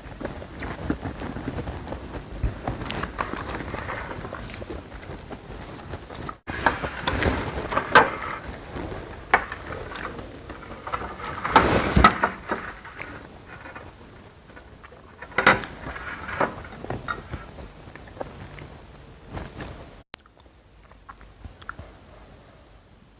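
Close-miked eating: a person biting and chewing crunchy food, with small clicks and mouth sounds between louder crunches about 7, 12 and 16 seconds in. It grows quieter near the end.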